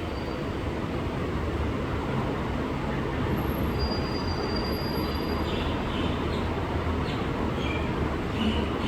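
Steady low rumbling noise, with a few faint, short, high tones over it.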